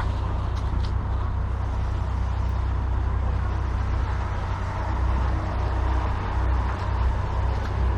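Heavy truck's diesel engine running steadily at idle, a low even rumble.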